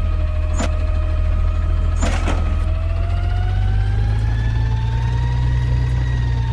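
Garbage truck's diesel engine running with a steady low rumble. About three seconds in it revs up, and a whine climbs in pitch with it and holds. Two sharp knocks come in the first couple of seconds.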